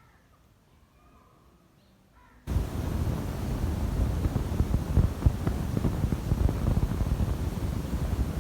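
Faint bird chirps over near silence, then about two and a half seconds in, loud wind buffeting on the microphone begins suddenly and keeps on as a steady low rumble.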